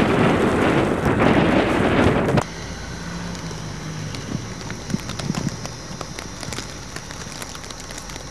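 Wind blowing hard across the microphone for about two and a half seconds, then cutting off suddenly to a quieter steady hiss of wind with scattered small ticks.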